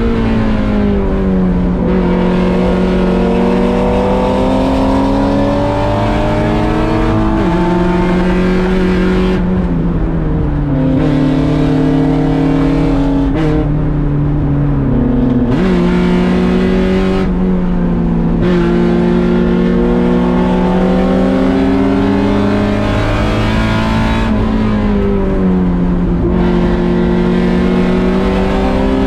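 Racing Mazda Miata's 1.6-litre four-cylinder engine at full throttle. Its note climbs steadily and falls sharply at each gear change, with one sudden jump in pitch partway through.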